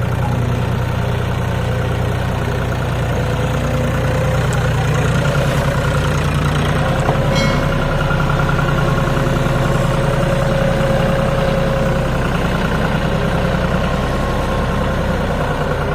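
Farm tractor's diesel engine running steadily, with a brief click about seven seconds in.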